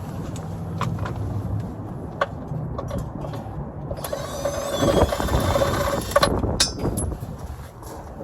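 Metal tools clicking and knocking against metal, with a squealing metal-on-metal scrape for about two seconds starting about four seconds in. There is a low rumble of wind on the microphone under it.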